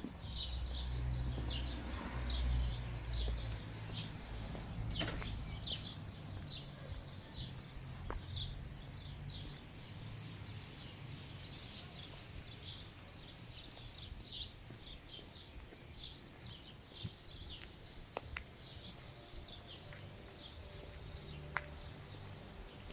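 Small birds chirping in quick, repeated short calls over a low, steady rumble that is heaviest in the first few seconds, with the chirping thinning out toward the end.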